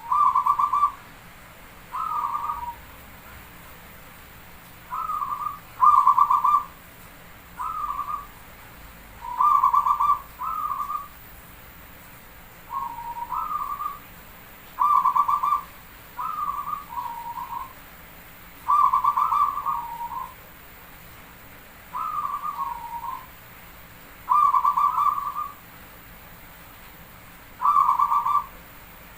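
Zebra dove (perkutut) cooing: about a second of rapid, stuttering coos, repeated every two or three seconds, some phrases stepping down in pitch at the end.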